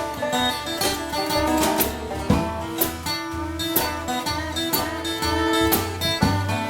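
Instrumental break of a band song: guitar playing over bass and a steady drum beat, with no singing.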